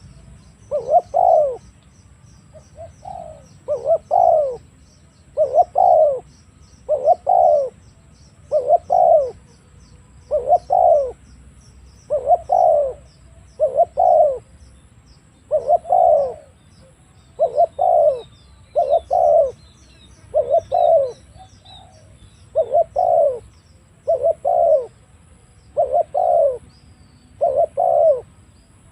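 Spotted dove (tekukur) cooing over and over, a short phrase of coos every second or two.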